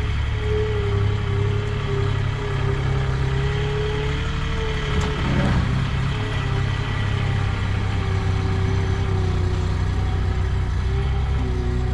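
Tractor engine running steadily, with a faint whine above the low rumble and a brief rattle about halfway through.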